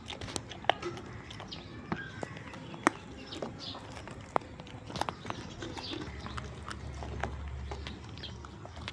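Goats eating and moving about: irregular sharp clicks and knocks, with faint bird chirps in the background.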